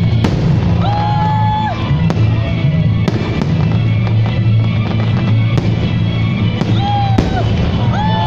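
Fireworks salute going off: a series of sharp bangs about one to two seconds apart, over loud music.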